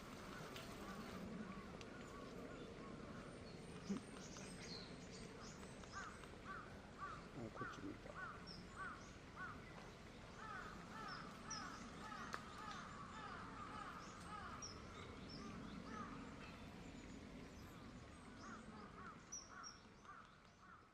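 Wild birds calling: faint runs of short repeated call notes, several a second, with thin high chips scattered among them.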